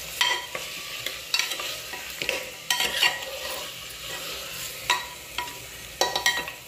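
Goat trotter pieces sizzling as they sauté in hot oil in an aluminium pressure cooker, stirred with a steel spatula that scrapes and knocks against the pot every second or so.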